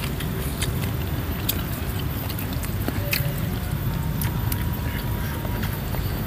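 A person chewing and eating close to the microphone, with scattered sharp clicks and smacks over a steady low rumble.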